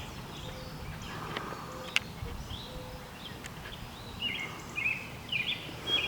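Small birds chirping in short repeated calls, sparse at first and more frequent in the second half, over a steady low rumble of outdoor background noise.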